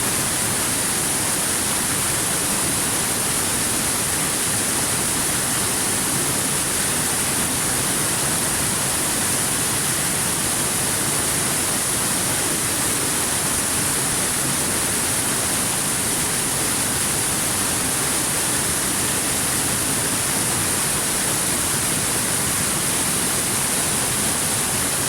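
Waterfall: water falling and rushing steadily, an even, unchanging noise with a strong high hiss.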